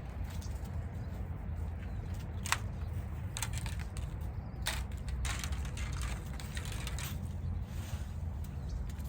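Galvanised wire hardware cloth being handled and worked, giving scattered sharp metallic clicks and rattles, thickest in the middle of the stretch, over a steady low rumble.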